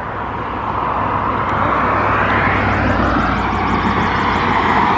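Steady road-traffic roar of a motor vehicle, growing gradually louder and slightly higher in pitch, then cutting off suddenly near the end.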